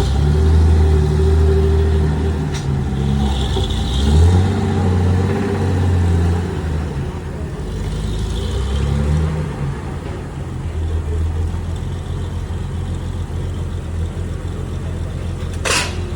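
Classic car engines rumbling at low speed, the engine note rising and falling a few times over the first ten seconds, then settling into a steadier low rumble. A single sharp click near the end.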